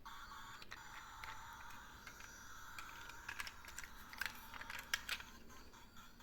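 Light plastic clicking and rattling of a miniature toy garbage truck, a cluster of sharp clicks about halfway through over a faint steady background hiss.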